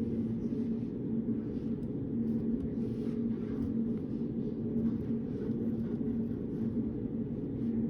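Steady low rumble of study-room background noise with a constant hum, and faint light scratches and taps from someone working at a desk.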